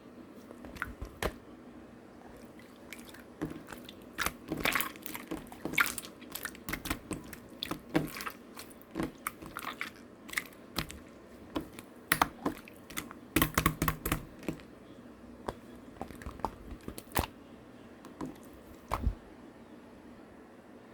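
Slime being pressed and squeezed by hand, giving irregular sticky clicks, pops and crackles that come thickest about a quarter of the way in and again just past the middle.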